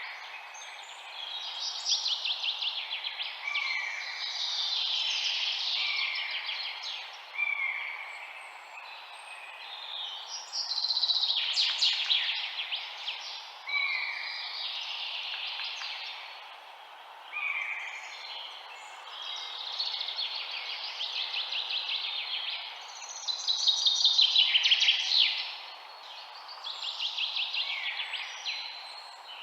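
Several songbirds singing at once, overlapping phrases of rapid trills and short rising whistles every few seconds, over a steady background hiss.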